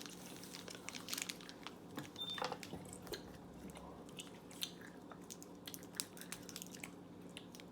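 People chewing Mamba fruit chews, soft chewy fruit candy: quiet scattered mouth clicks and chewing noises over a faint steady low hum.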